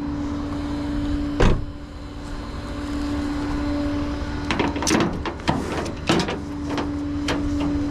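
A car door shut with one loud thud, followed a few seconds later by a run of sharp metallic clanks and clicks, over a steady hum that drops out when the door shuts and comes back near the end.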